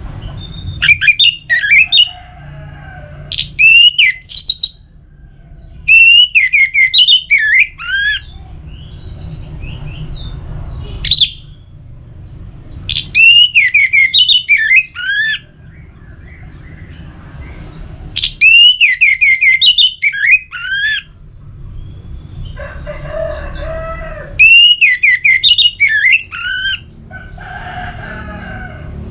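Orange-headed thrush singing: loud phrases of rapid, varied whistled notes, each a second or two long, repeated every few seconds. Softer, lower calls come between some phrases, over a low steady rumble.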